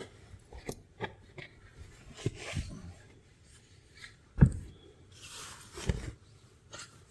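Fabric rustling and soft bumps as a person shifts around in a sleeping bag inside a car, with one heavier low thump about four and a half seconds in.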